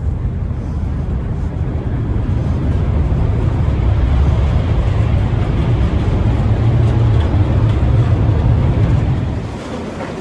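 A train running: a steady low rumble with a rushing noise over it, which eases off about nine and a half seconds in.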